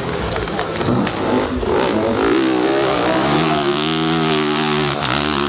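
Dirt bike engine revving hard under load on a hill climb: the pitch climbs about two seconds in, holds high with small wavers of throttle, then drops briefly near the end.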